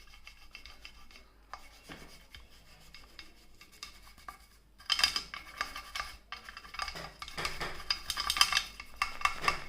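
Scratchy scrubbing and scraping strokes at the dust-clogged air-intake holes of a diaphragm air pump, to clear them. Faint at first, then louder and quicker from about five seconds in.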